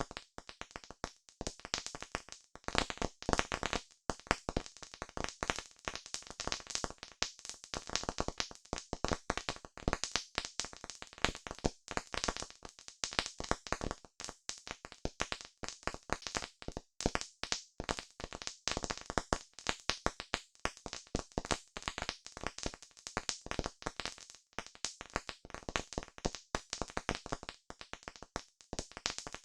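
Campfire crackling: a dense, irregular run of pops and snaps from burning wood, some louder than others.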